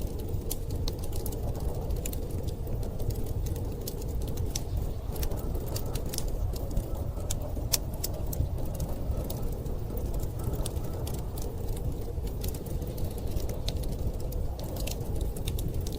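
Wood fire crackling, with frequent sharp irregular pops and snaps over a steady low rumble of storm wind.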